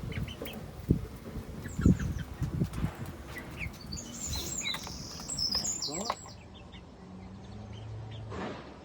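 Young chickens cheeping and chirping in short high calls, with a few loud knocks in the first two seconds. The calls grow quieter about six seconds in.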